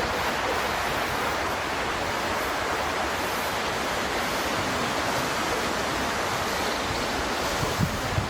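Steady rushing noise, even and without rhythm, with a few low bumps near the end.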